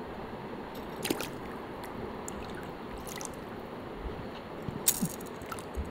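Small water sounds, drips and light splashing over a steady background hiss, with a couple of short sharp clicks about a second in and near five seconds in.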